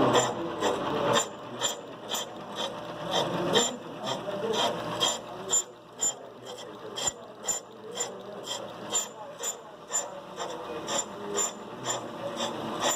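Brake lathe turning a brake drum on its arbor during a cutting pass, with an even run of sharp ticks about two to three a second over the steady machine noise.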